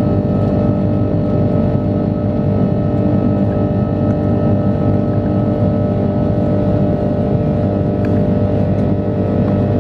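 Airbus A330-300 jet engines running at takeoff or climb power: a loud, steady drone with several constant whining tones laid over it, unchanging throughout.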